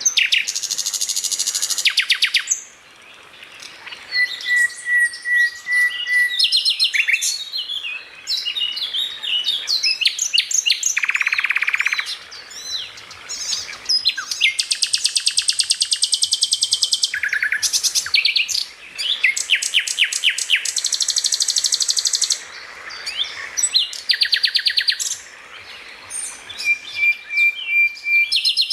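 Songbirds singing in a fast-changing medley: rapid chirping trills high in pitch, a held fluttering whistle, and a buzzy rattle about eleven seconds in.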